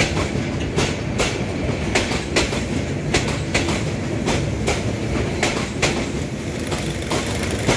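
Passenger coaches of a Bangladesh Railway intercity express rolling past close by: a steady rumble of wheels on rail with sharp clickety-clack as the wheels cross rail joints, about two to three clicks a second.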